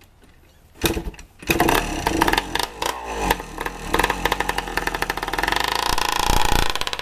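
1982 Yamaha IT175's single-cylinder two-stroke engine on its first start-up: a thump about a second in, then the engine catches and runs, revved up and down with a rising rev toward the end. It runs loud, with no silencer fitted.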